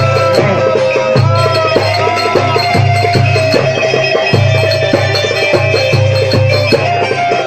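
Live Egyptian simsimiyya band music, an instrumental passage with hand percussion over a steady, rhythmic bass beat and a held melody line.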